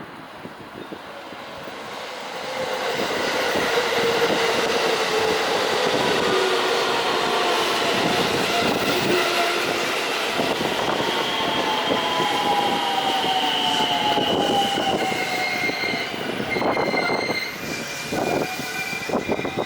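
JR West 223 series 2000 electric multiple unit running in and braking. Its traction inverter and motors whine in several tones that fall steadily in pitch as it slows, over wheel-on-rail rumble and clicking. Higher steady tones come in near the end.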